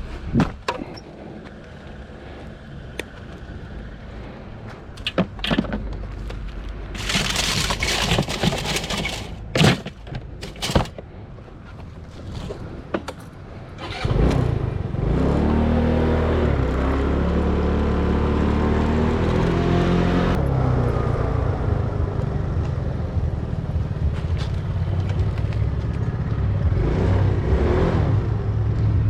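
Scattered knocks and clatters, then about halfway through a motor vehicle engine starts and runs steadily. Its pitch shifts for the first several seconds and then settles.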